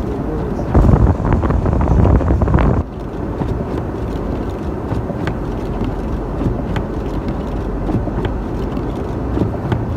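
A 1996 Ford Bronco driving through snow, with a steady rumble of engine and tyres. For about two seconds near the start it turns louder and rougher with crackling, then settles back to a steady rumble.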